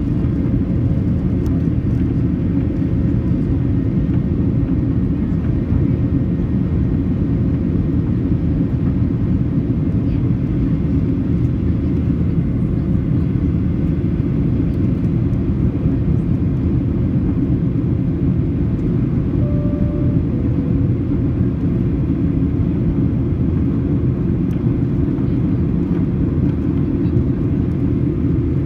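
Steady cabin rumble and roar of a Boeing 737-800's CFM56-7B turbofan engines and airflow, heard from a window seat during the climb after takeoff with flaps up. About twenty seconds in, a short two-note chime sounds, high then low.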